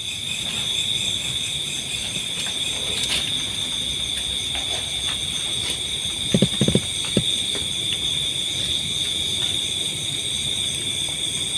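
Night chorus of crickets trilling steadily in several high-pitched layers, with a few brief low knocks about six to seven seconds in.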